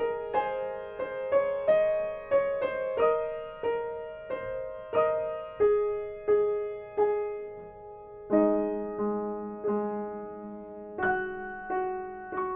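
Solo piano playing a slow, gentle melody, one note struck every half second or so, each fading away. A deeper chord comes in about eight seconds in, and a louder chord is struck near the end.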